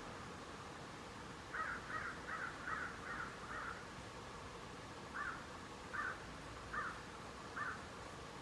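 A bird calling: a quick run of six short calls, then four more spaced out more slowly.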